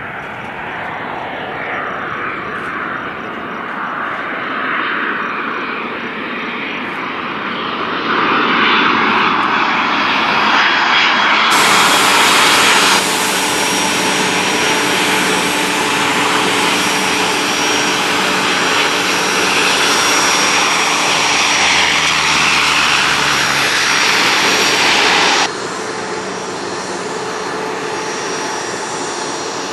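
Airliner engines passing close by, building to a loud, steady noise with whining tones through it. The level jumps suddenly a few times and drops abruptly about 25 seconds in.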